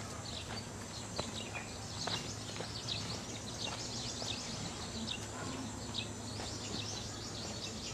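Birds chirping in the trees, many short high chirps, over a steady low background hum.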